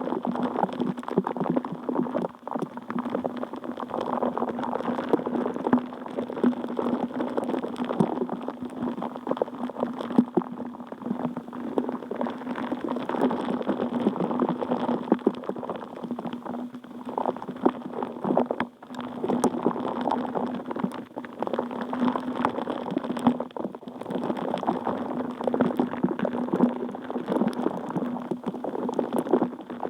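Water bubbling continuously with many tiny pops, over a steady low hum.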